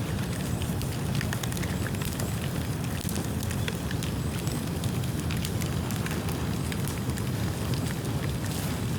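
Bonfire of rain-wet bamboo burning fiercely: a steady low rumble of flame with frequent small, irregular crackles and snaps throughout.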